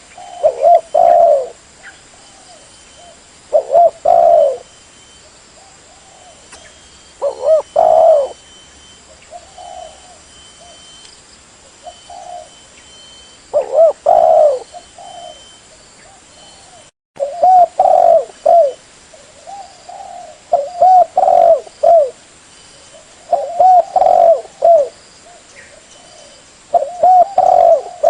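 Spotted dove (tekukur) cooing: loud, repeated coo phrases of a few notes each, a new phrase every few seconds. This is the call of a prized lure bird, used to call in wild spotted doves.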